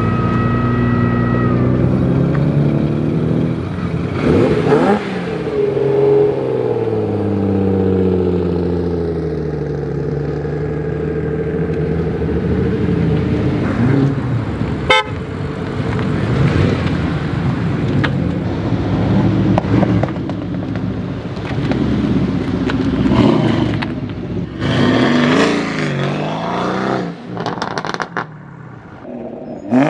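Performance car engines revving at a car meet, their pitch climbing and falling several times, with a sharp crack about halfway through.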